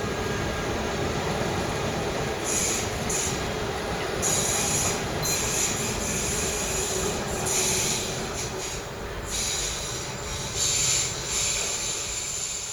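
Train wheels squealing as a train rolls slowly over the station tracks: high squeals come and go repeatedly over a steady rumble of wheels and running gear.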